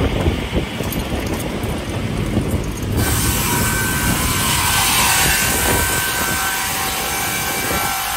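Winter MRS-155 chain-feed multi-rip saw running; about three seconds in, the sound turns suddenly brighter, a steady high hiss with a thin whine, as the blades start cutting timber.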